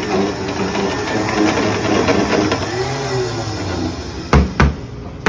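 Foot-pedal Blizzard spindle mixer running steadily as it blends ice cream and Oreos in a cup. A few heavy thumps near the end.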